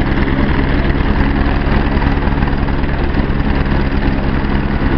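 Police helicopter running loudly and steadily, its engine hum over a fast low chop of the rotor blades.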